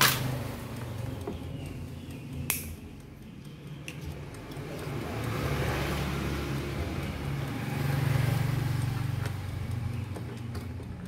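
Low vehicle-like rumble that swells and fades twice, loudest a little past the middle, with a sharp click at the start and another about two and a half seconds in.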